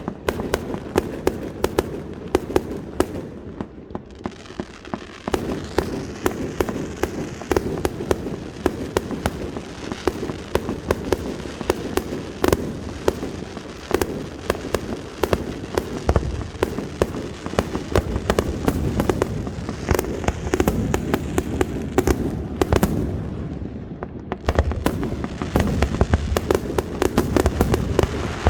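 Fireworks display at full pace: rapid, dense cracks and bangs of bursting aerial shells over a continuous rumble, growing heavier about halfway through and again near the end.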